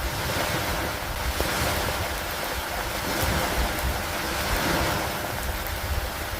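Steady rain falling on wooden dock planks, with a low rumbling undertone, the whole wash slowly swelling and easing every couple of seconds.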